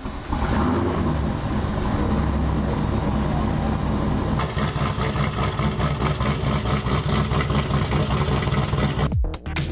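Twin-turbo 6.6-litre LS2 V8 running, its sound coming in abruptly just after the start and holding steady. Electronic music with sharp cuts comes in near the end.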